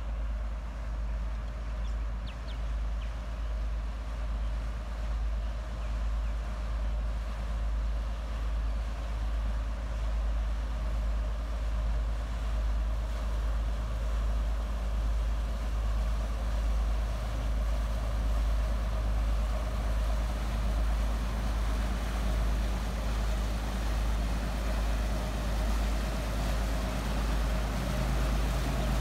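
Shrimp boat's diesel engine running: a steady low drone with a slow, even throb, growing slightly louder as the boat comes closer.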